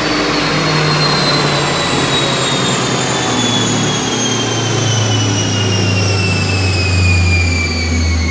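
Engine of a turbocharged Honda City i-VTEC, fitted with a bolt-on Volvo TD04HL turbo and a CVT gearbox, running hard on a chassis dynamometer. There is a loud steady drone, and a high whine slides slowly down in pitch throughout.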